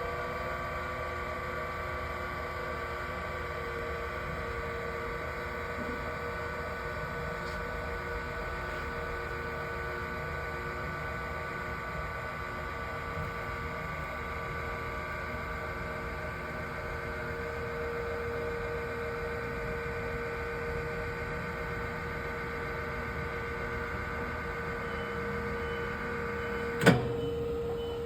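Matsumoto Kikai POK-07 welding positioner's electric drive motor and gearbox running under power, a steady hum with a constant whine. Near the end there is one sharp clack.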